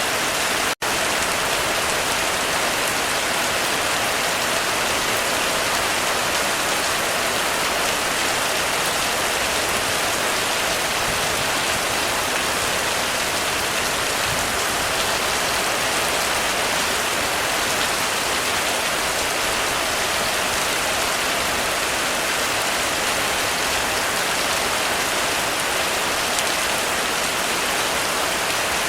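Heavy rain falling steadily on a roof, a dense even hiss with no thunder, broken by a split-second gap a little under a second in.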